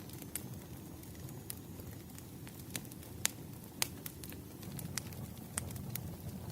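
Wood fire burning: a steady low rumble with irregular sharp crackles and pops, the loudest two a little past the middle.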